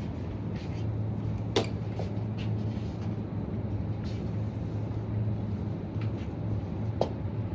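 Steady low hum of a supermarket interior, broken by a few sharp clicks or knocks. The loudest comes about a second and a half in and another near the end.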